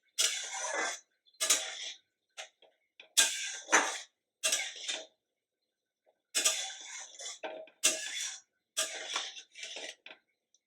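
Kitchen work sounds: a string of short scraping and clattering noises from utensils and cookware, broken up by moments of silence.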